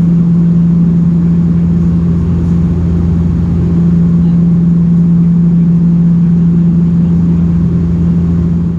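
Cabin drone of a Dash 8-402 (Q400) turboprop in flight, heard from inside the cabin: a loud, steady low hum from its PW150A engines and six-blade propellers, with one strong droning tone that holds steady.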